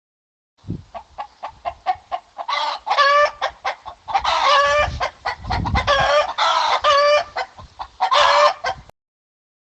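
Chicken clucking: a quick run of short clucks, then several longer, drawn-out calls, ending abruptly.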